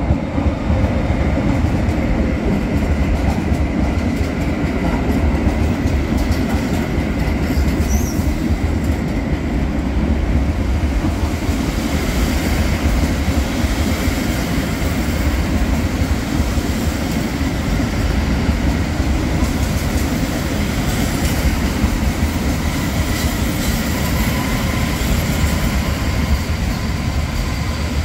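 PKP Intercity passenger train arriving: an electric locomotive and its coaches roll past close by with a loud, steady rumble of wheels on rail and some clickety-clack over the rail joints. A thin high wheel squeal begins near the end as the train brakes to a stop at the platform.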